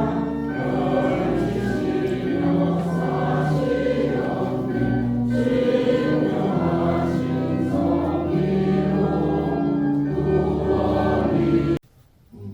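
Church choir singing a hymn over steady held low notes. The singing stops abruptly about a second before the end.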